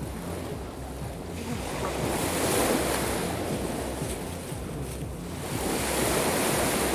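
Sea waves washing onto the shore: two swells of surf, the first cresting about two and a half seconds in, the second near the end, with wind rumbling on the microphone.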